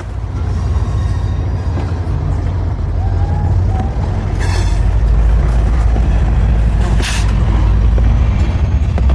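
Train passing close by: a loud, steady low rumble that builds slowly, with two brief high squeals, about four and a half and seven seconds in.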